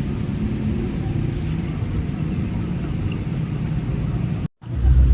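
A steady low rumble cuts out in a brief silent gap near the end and then comes back louder.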